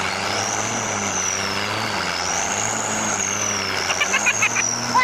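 Heavy vehicle's engine running steadily under load, with a high whine that rises and falls in slow waves. A few short high squeals come near the end.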